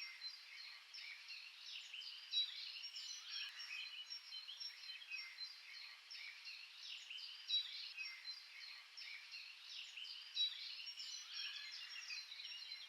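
Many songbirds singing at once: a dense, continuous mix of chirps and trills, with a few louder notes standing out about two and a half, seven and a half and ten and a half seconds in.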